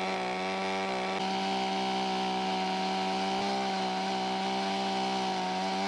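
Carving chainsaw held at steady full throttle while cutting into a wood block, its engine note staying level throughout.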